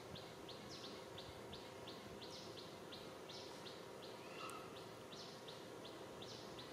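Faint bird chirping: a steady string of short, high, down-slurred chirps, about three or four a second, with one different brief call about halfway through, over quiet forest background.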